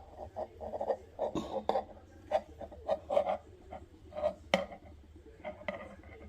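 Handling noise: a run of short, irregular knocks and scrapes, with a sharp click about four and a half seconds in, over a low steady hum.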